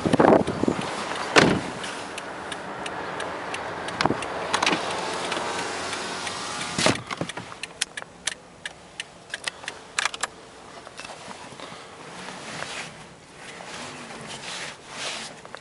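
Clicks, knocks and sliding rattles of a car's manual driver's-seat adjusters and steering-column tilt lever being worked: two sharp knocks at the start, a few seconds of steady rubbing noise, then a scatter of small clicks that thin out.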